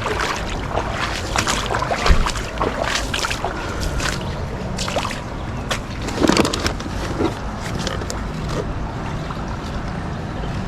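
Water sloshing and splashing around a kayak, with irregular knocks and clatter, loudest about two seconds in and again around six seconds, over a steady low rumble.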